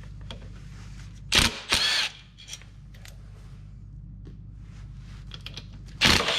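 Socket ratchet clicking and metal tools clattering in short loud bursts as 8 mm bolts are worked on a Can-Am's stator cover, with small ticks between, over a steady low hum.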